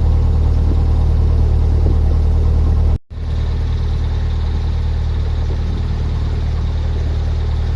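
Narrowboat's diesel engine running steadily at cruising speed, a low even hum. It drops out for a split second about three seconds in, then carries on slightly quieter.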